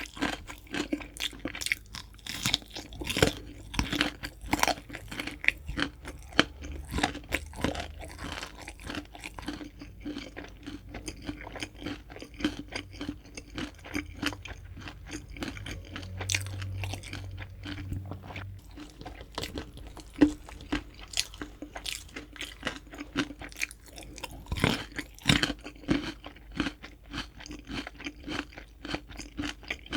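Crispy fried chicken being bitten and chewed close to the microphone, with its crunchy coating giving dense, irregular crackles throughout.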